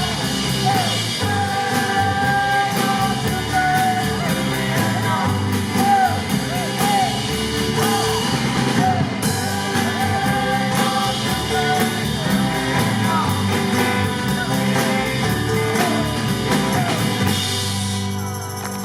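Live band playing a rock song: a singer over the band with a drum kit keeping a steady cymbal beat. The drums stop shortly before the end as the song finishes.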